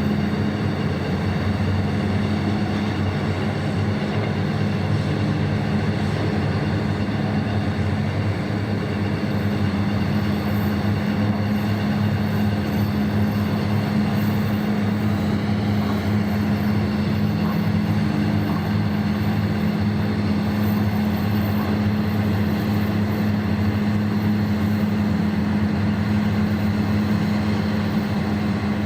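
Heavy mining machinery running steadily, a constant engine hum with no change in pitch or load.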